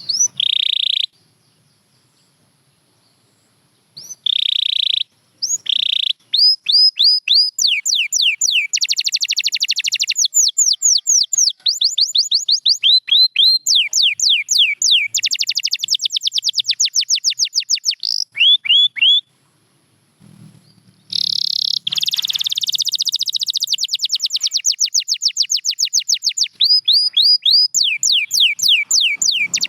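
Domestic canary singing: fast trills of repeated falling whistled notes, mixed with short buzzy held notes, breaking off briefly near the start and again about two-thirds of the way through.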